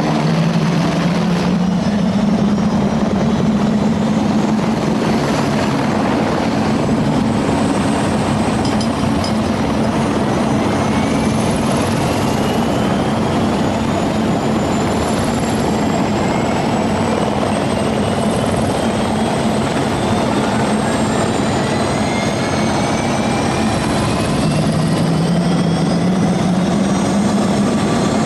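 Police helicopter flying low and close, its rotor and engine running loud and steady, with high whining tones sliding slowly up in pitch. The helicopter is in distress, its crew having called mayday.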